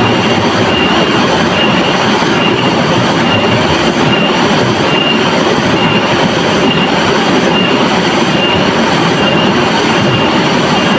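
River water rushing steadily over rocks, a dense even noise. A faint high note repeats under it about every half second.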